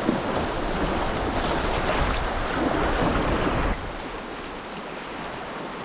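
River rapids rushing, a steady wash of whitewater around the canoe. Wind buffets the microphone with a low rumble for the first few seconds, then eases off.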